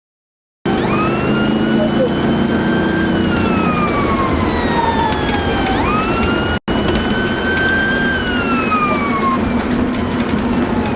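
Emergency vehicle siren on a slow wail, its pitch climbing and then gliding down in long sweeps, over a heavy steady roar. The sound cuts out for an instant about two thirds through.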